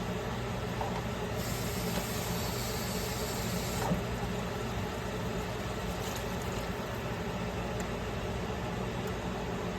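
A steady machine hum, with a hiss that starts about a second and a half in and stops about four seconds in with a small click.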